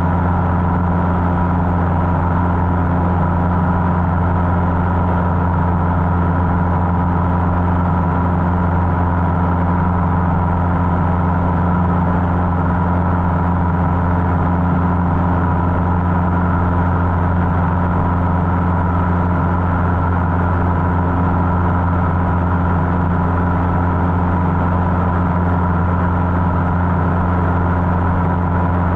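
Cessna 150's four-cylinder Continental O-200 engine and propeller droning steadily in cruise flight, with no change in pitch or level.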